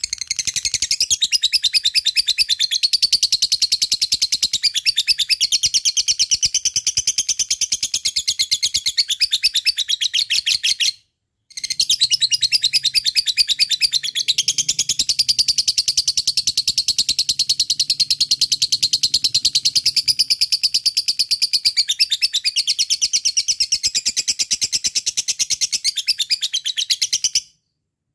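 Lovebird singing its long 'ngekek' chatter: a fast, unbroken run of high, shrill repeated notes. It pauses briefly about eleven seconds in, then runs on again and stops shortly before the end.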